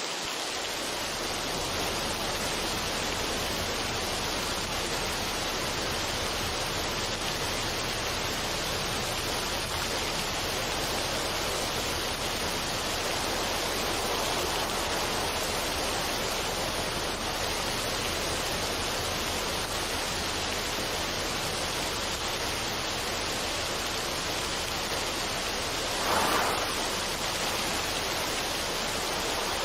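Steady, even rushing noise like running water, with a brief swell near the end.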